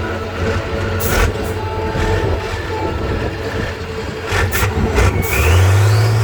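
Heavy off-road trial truck's engine running, with a few sharp bangs. Near the end it revs up, and a whistle rises in pitch.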